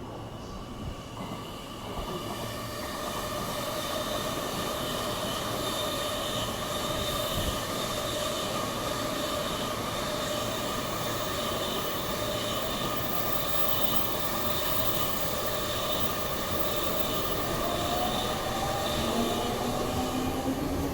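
An electric train running past: a long, steady rush of wheel and running noise with several steady high tones, and a rising electric motor whine near the end.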